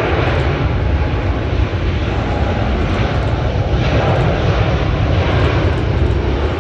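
Air Europa airliner's jet engines at takeoff thrust, a loud, steady rumble.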